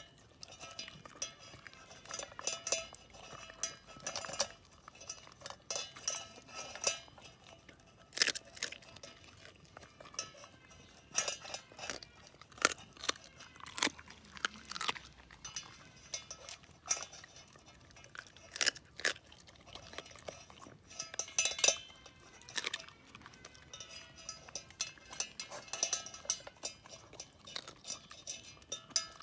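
Shiba Inu eating raw chicken wing tips from a metal pot: chewing, with irregular clinks and knocks of teeth and tongue against the pot, some of them briefly ringing.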